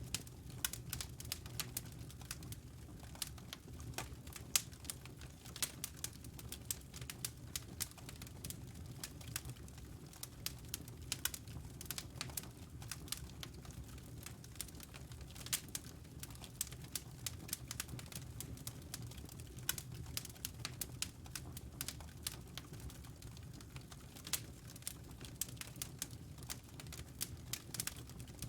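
Fire crackling in a fireplace: frequent irregular sharp pops and snaps over a steady low rumble of the burning.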